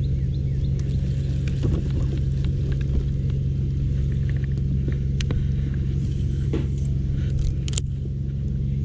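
Steady low electric-motor hum from the fishing boat, with a few light clicks and taps over it.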